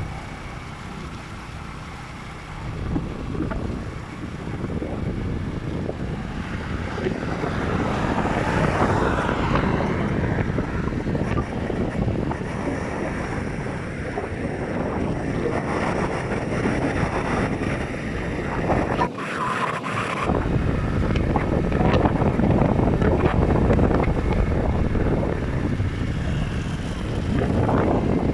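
Wind buffeting the microphone of a moving motorcycle, mixed with road and vehicle noise, gusting up and down. About two-thirds of the way through, the low rumble cuts out for about a second.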